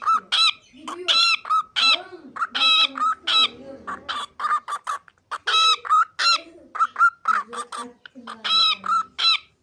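Cockatiel calling in a rapid run of short, sharp chirps, one after another throughout.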